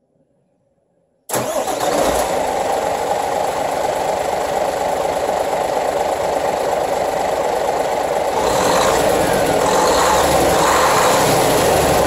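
Hino E13C straight-six turbo-diesel truck engine running, coming in suddenly about a second in after near silence. It gets a little louder with a few brief rises in engine speed after about eight seconds.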